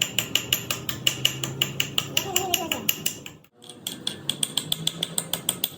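Rapid, even hammer strikes on steel, about six or seven a second, each with a short metallic ring. The hammering breaks off briefly about three and a half seconds in, then resumes.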